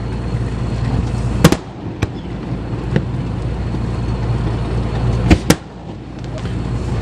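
Fireworks going off: five sharp bangs, the loudest about a second and a half in and two close together about five seconds in, over a steady low rumble.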